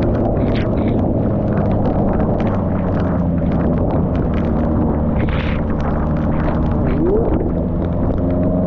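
Heavy wind buffeting the microphone of a motorcycle riding through a storm, with the motorcycle engine running steadily underneath and rising in pitch near the end as it speeds up.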